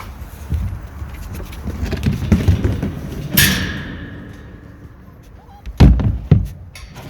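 Knocks and handling noises, with a sharp metallic clang that rings briefly about halfway through, followed by two heavy thuds near the end.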